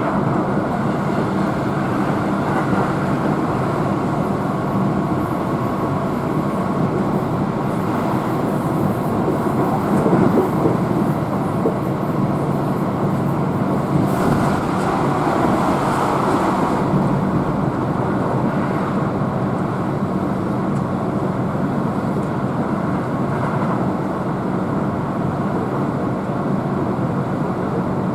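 Keihan electric train running at speed, heard inside the carriage: a steady rumble of wheels on rails with motor hum. There is a louder rushing swell about halfway through.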